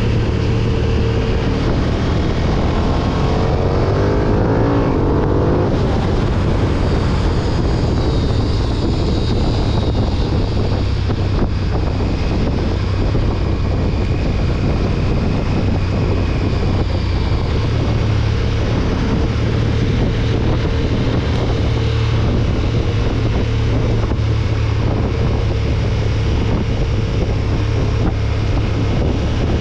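KTM 1290 Super Duke R's V-twin engine running steadily under riding, with wind noise over the microphone; a few seconds in its pitch climbs briefly as it accelerates.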